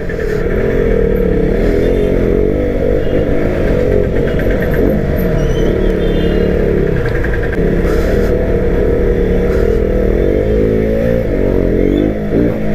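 Single-cylinder KTM RC sport motorcycle engine heard from the rider's seat, revving up and down in short pulls as it filters through stop-and-go traffic, its pitch rising and falling again and again.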